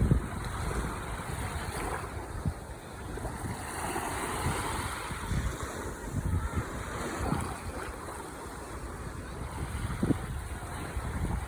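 Ocean surf: waves breaking and washing in as a continuous rush with a low rumble underneath, swelling a little about four seconds in.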